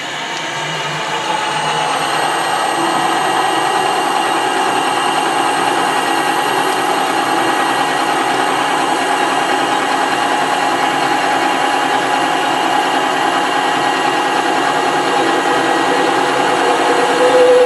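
Metalworking lathe running steadily, a constant machine hum with a whine of several steady tones. A loud high squeal sets in right at the end.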